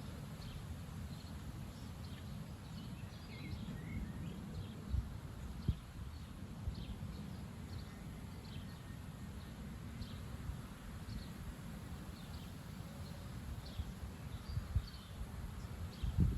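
Strong wind buffeting the microphone as a rough, fluctuating low rumble with a few sudden thumps from gusts, while small birds chirp throughout.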